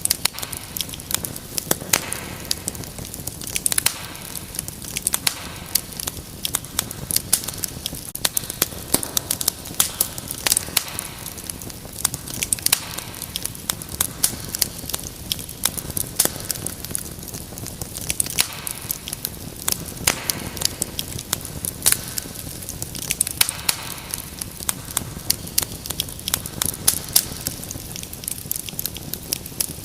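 Wood fire crackling in a fireplace: a steady run of sharp pops and snaps over a soft hiss of burning.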